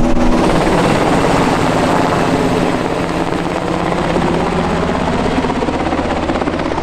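Loud, steady engine noise and rushing from off-road race vehicles at speed, easing off near the end.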